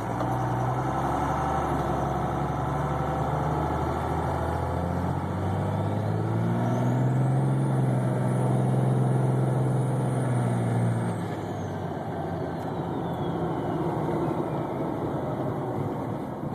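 Diesel pickup engine pulling hard under acceleration with its S362/S475 twin turbochargers spooling: a high turbo whistle rises about six seconds in, holds, then winds down after the throttle comes off near eleven seconds. The whistle comes up quickly, the quick spool of this twin-turbo setup.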